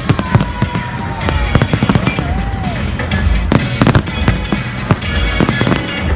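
Aerial fireworks going off in rapid succession: many sharp bangs and crackles, over music playing alongside the display.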